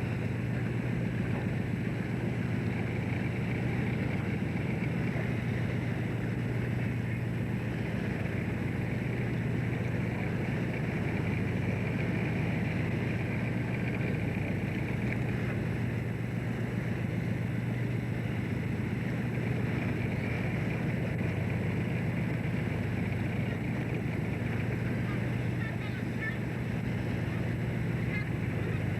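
Fishing boat's engine running at a steady, even drone.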